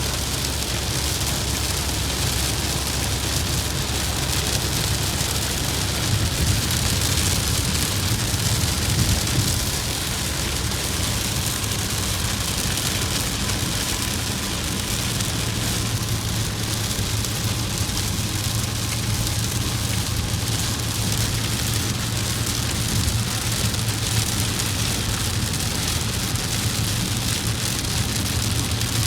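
Heavy rain hissing steadily over a low, continuous vehicle rumble, as in driving through a rainstorm.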